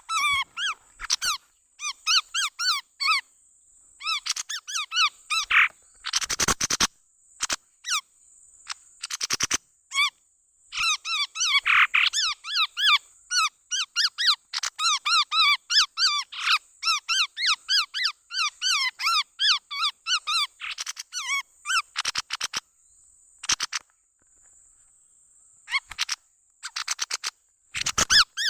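Chestnut-rumped babblers calling in fast runs of short, squeaky chirping notes, several per second, in bursts with brief pauses. A steady high buzz and sharp clicks run alongside.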